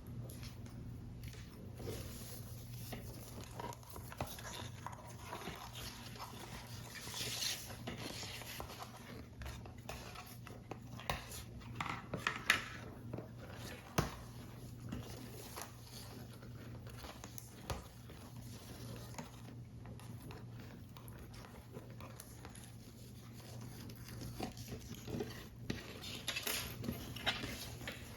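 Paper model parts and small tools being handled during assembly: scattered soft clicks, taps and paper rustles, with a few sharper knocks. A steady low hum runs underneath.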